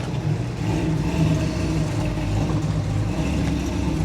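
A car engine running steadily at low revs, a continuous low hum.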